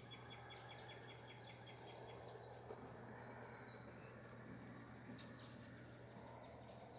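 Faint birds chirping: short, high chirps repeated on and off, over a low steady hum.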